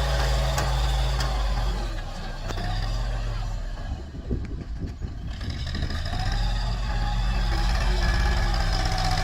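Diesel tractor engine running steadily, quieter for a few seconds in the middle with an uneven low rumble, then back up to its steady hum.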